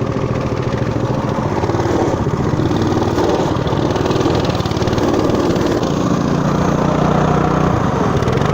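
Motoland RT200 mini off-road motorcycle engine running under load, its pitch rising and falling with the throttle as it pushes through deep mud, with a steadier stretch near the end.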